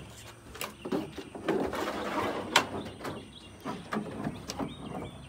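Scattered knocks, taps and scrapes, several sharp ones a second or so apart: a puppy moving about in a pickup truck's bed.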